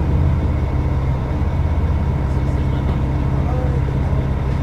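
Diesel engine of a Caio Millenium BRT bus on a Mercedes-Benz O500UDA chassis running at a steady, unchanging speed.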